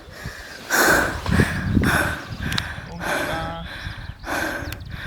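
Footsteps on sand, a regular series of short scuffs about one to two a second.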